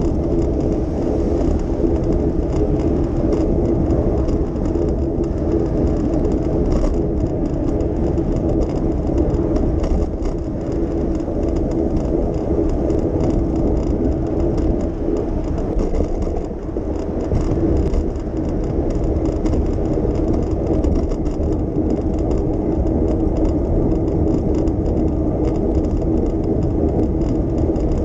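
Steady city traffic noise heard from a moving bicycle: motor vehicles and tyres on the road, with a constant low hum and a brief dip in loudness about two-thirds of the way through.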